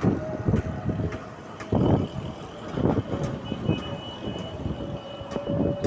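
Strong gusting wind buffeting the microphone in irregular blasts, with a faint steady tone underneath.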